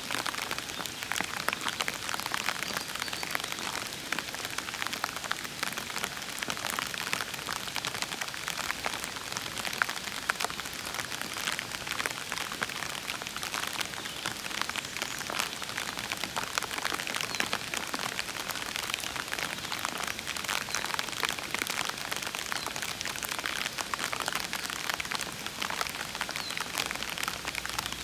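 Steady rain falling, with many small close drops pattering on surfaces in a dense, even patter.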